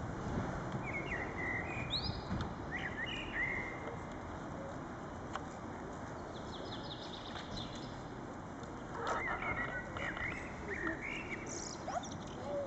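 Songbird calls chirping in short bursts of high, gliding notes, a few seconds apart, over a steady outdoor background rumble.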